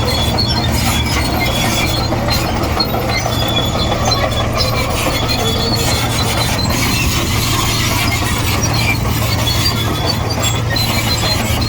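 Komatsu D58E crawler bulldozer's diesel engine running steadily with a low hum, while its steel tracks give off scattered high squeaks and clinks.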